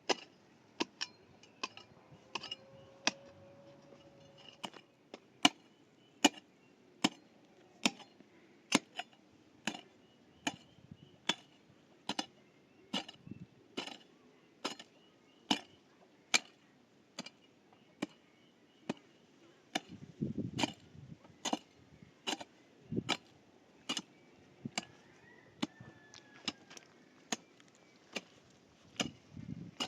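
A hand tool striking hard material over and over in a steady rhythm, a sharp hit roughly every half-second to second, with a few duller thuds mixed in about two-thirds of the way through.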